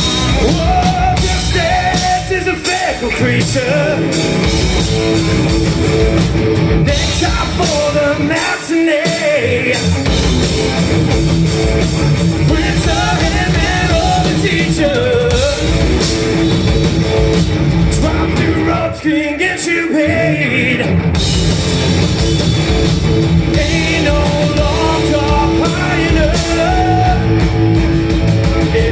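Live rock band playing a song with a sung lead vocal over electric guitars, bass and a drum kit. The low end drops out briefly twice.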